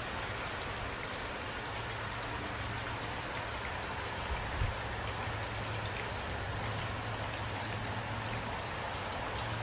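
Steady rain falling, with many individual drops ticking, over a low hum. A single soft thump about four and a half seconds in.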